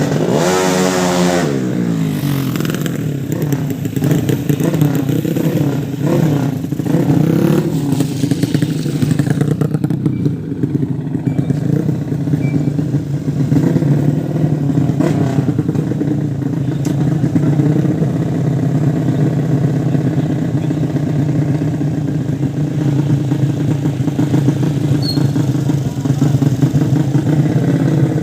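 150 cc motorcycle engines running. In the first second or so one engine's pitch falls steeply, then the engine note holds steady, rising and falling a little.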